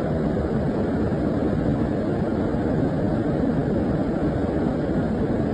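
Floodwater rushing down a small stream swollen by rain: a loud, steady, low rushing noise.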